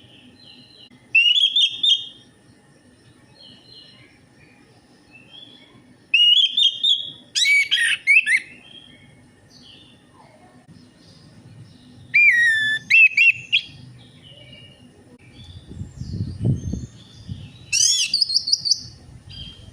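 Orange-headed thrush singing: four loud bursts of rapid, varied whistled notes, each a second or two long, with pauses of a few seconds between them.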